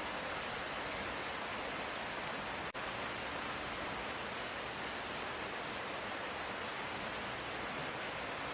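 Steady, even hiss of light rain, with no thunder, and a split-second dropout about a third of the way in.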